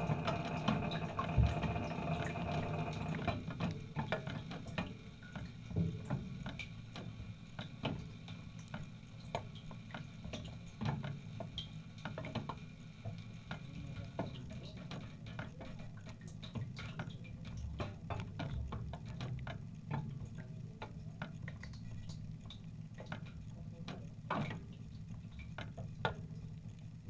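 Dishwasher running: a steady low hum of its pump or motor under scattered drips and ticks of water. A set of higher steady tones dies away about three seconds in.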